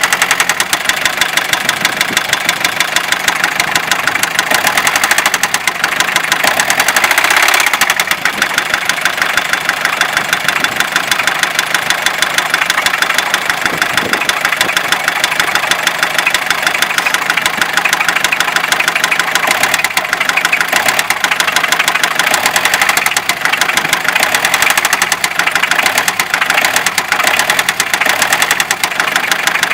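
Fiat Ducato 2.5 TDI diesel engine running with a steady, regular knock.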